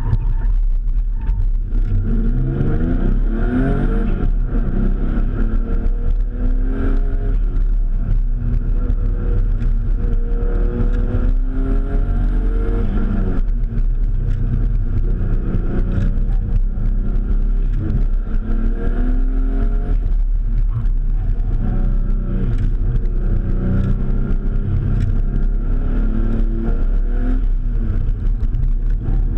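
Mitsubishi 3000GT VR-4's twin-turbo V6, heard from inside the cabin, being driven hard: its pitch repeatedly climbs under acceleration and drops back as the driver shifts and lifts. A steady deep rumble runs underneath.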